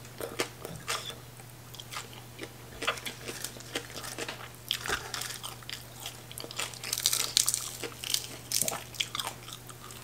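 Close-miked chewing and crunching of mouthfuls of papaya salad and fried fermented fish eaten by hand, with many short wet crackles and mouth clicks, loudest about seven seconds in. A steady low hum sits underneath.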